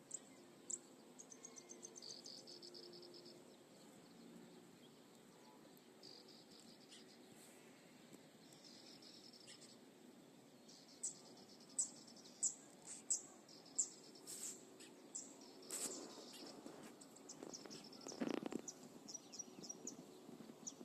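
Faint crickets chirping in short repeated trills. From about halfway through, a series of sharp, high bird chirps joins them.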